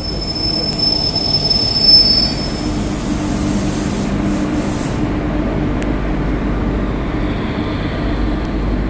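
Diesel locomotive and freight train passing close by. A thin, high wheel squeal sounds for the first two seconds, then the wagons roll past with a steady, loud rumble.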